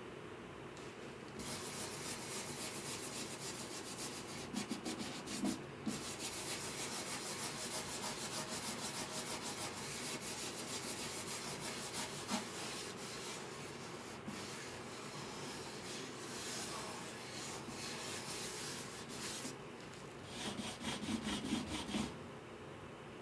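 Hand abrasive work on guitar wood, an abrasive scratching back and forth over the wood for about twenty seconds with a couple of brief pauses.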